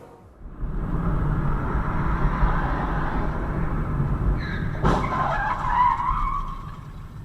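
Car on the road with loud tyre and engine noise and tyres skidding, then a single sharp bang about five seconds in, followed by a screech that fades out: a collision.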